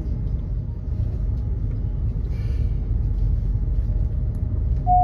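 SBB ETR610 electric tilting train running, heard inside the passenger coach: a steady low rumble, with a short hiss about halfway through.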